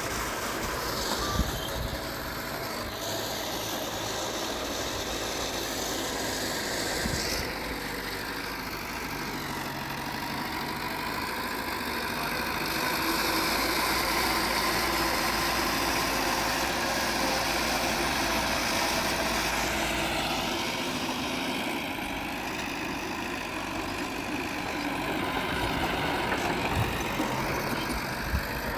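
Diesel engine of heavy earthmoving machinery running steadily, growing somewhat louder for several seconds around the middle before settling back.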